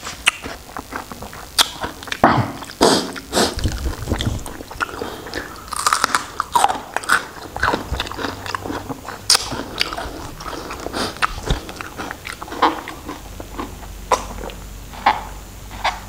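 Close-miked eating: a person chewing and biting raw shrimp, with irregular sharp mouth clicks and wet smacks.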